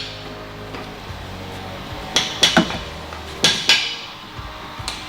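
Sharp metal knocks: three close together a little after two seconds in, a pair about a second later and one more near the end, over background music.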